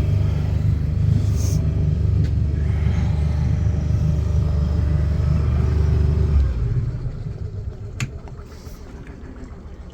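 Small fishing boat's engine running steadily with a deep rumble, just started for the first time after repair; about six and a half seconds in the level drops sharply and only a fainter low rumble remains. A single sharp click sounds about eight seconds in.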